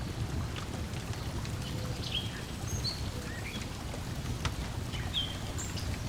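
Layered lakeside ambience: a steady low wash of water lapping at the shore, scattered crackles and pops from a wood fire, and short bird chirps now and then.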